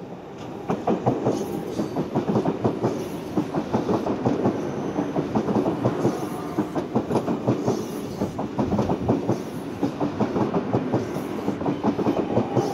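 Sydney Trains C-set double-deck electric train passing close by. Its wheels click over the rail joints in a quick, uneven rhythm over a steady rumble, getting louder about half a second in.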